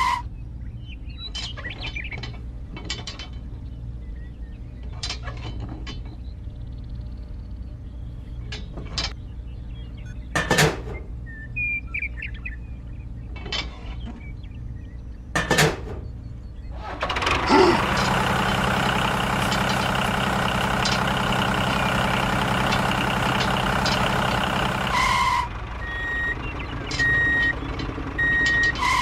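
Low steady engine drone of a construction machine with scattered sharp clicks and knocks. About seventeen seconds in, a louder machine noise with a whirring, many-toned texture starts, runs for about eight seconds and cuts off suddenly.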